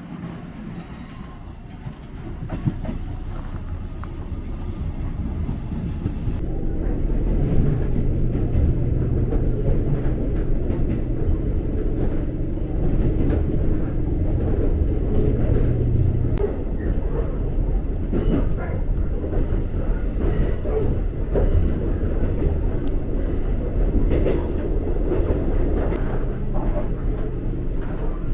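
Jōshin Dentetsu electric train running on its rails, a steady low rumble with clicking of the wheels over the track, growing louder over the first seven seconds or so and then holding steady.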